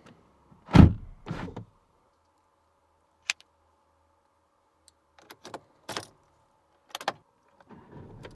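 Car door shutting with a heavy thud about a second in, followed by a lighter knock, then a sharp click and a scatter of small clicks and knocks from inside the car.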